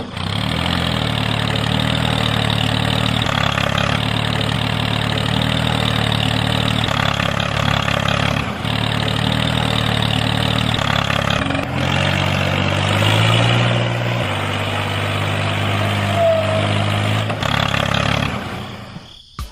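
Small engine of a mini tractor running steadily, its pitch shifting a little a few times, then cutting off sharply near the end.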